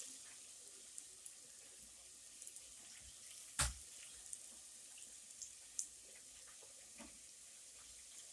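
Crab cakes frying in oil in a skillet: a faint steady sizzle with scattered small pops and a few sharper clicks, the loudest about three and a half seconds in.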